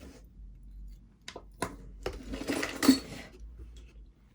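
Costume jewelry clinking and jangling as pieces are rummaged through and picked out of a box lot: two light clicks, then about a second of metal pieces rattling together.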